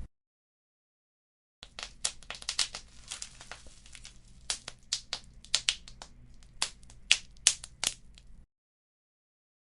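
Wood fire crackling, with many sharp pops and snaps over a faint low rumble. It starts abruptly about a second and a half in and cuts off suddenly near the end, with dead silence on either side.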